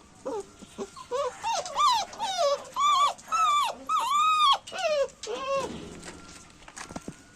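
A dog whining in a run of high, rising-and-falling cries, loudest in the middle, which stop about six seconds in.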